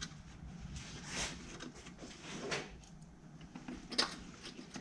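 Light handling noises from working on parts: three short scrapes or rustles, the last a sharper click about four seconds in.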